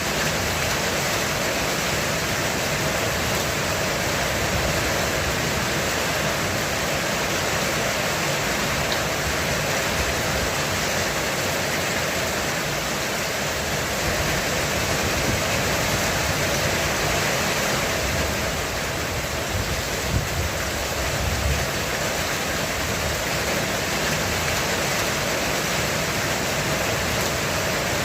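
Heavy rain falling steadily on a roof, with a low rumble of thunder underneath that swells about two-thirds of the way through.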